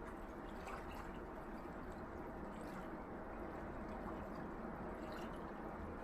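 Small sea waves washing gently on a shore: a steady, low wash of water with scattered small ticks and splashes on top.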